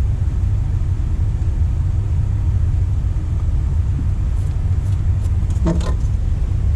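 Steady low rumble, with a few faint clicks and a brief voice sound near the end.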